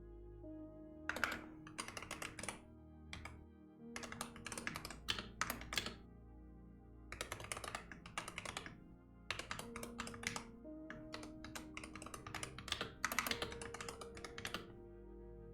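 Typing on a computer keyboard in bursts of quick key clicks with short pauses between, over soft background music with slow held tones.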